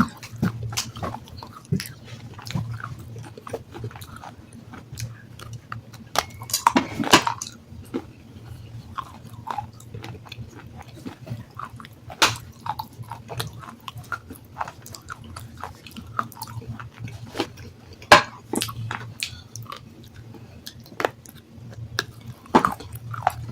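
Close-miked biting and chewing of soaked black sandstone, irregular crisp crunches one after another. A louder run of crunching comes about seven seconds in, and a single sharp crack about eighteen seconds in.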